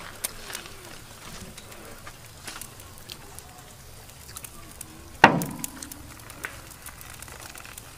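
Bites into and chewing of crisp fried food, heard as scattered sharp crunching clicks, with one loud thump about five seconds in.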